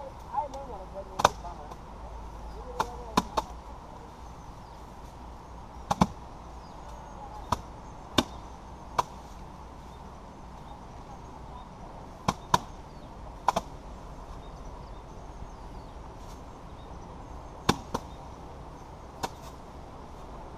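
Sharp, irregular knocks, about one a second with some close pairs: sheaves of rice paddy being beaten against a threshing surface to knock the grain off by hand.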